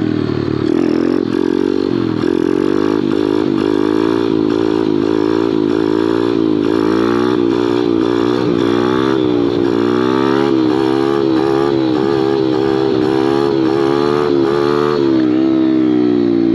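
Small Kawasaki pit bike engine revving in first gear during a wheelie, its pitch rising and falling over and over as the throttle is chopped on and off to hold the front wheel up. The engine settles to a steadier, lower note near the end.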